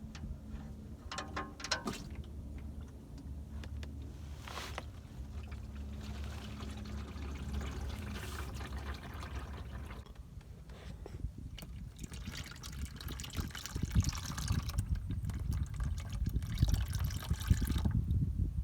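Engine oil draining from a Dodge Cummins oil pan into a drain pan, pouring steadily and getting heavier in the second half. There are a few sharp clicks in the first two seconds.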